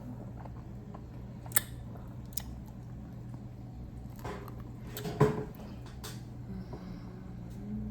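Scattered sharp clicks and crackles as packs of chewing gum are opened and handled, loudest about five seconds in, over a steady low hum.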